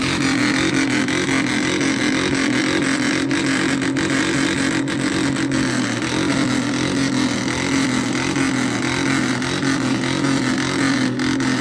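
A motor vehicle engine running steadily with a low, slightly wavering drone.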